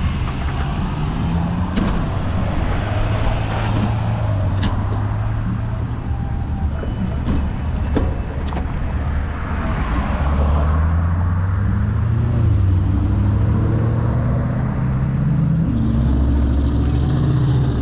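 Motor vehicle engine running, its pitch shifting up and down a few times, with steady wind and road noise and a few sharp clicks in the first half.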